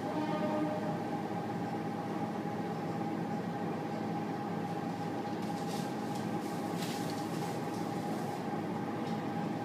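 Steady hum inside a stopped electric commuter train's carriage, with a constant whine from the train's running equipment. A few soft clicks and rustles come in the middle.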